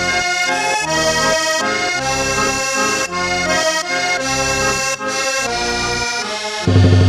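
Accordion playing a cumbia melody in sustained, shifting chords and notes. About six and a half seconds in, a louder section with heavy bass begins.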